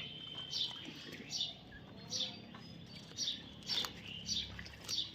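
Baby parrot giving short, high chirps over and over, about one or two a second.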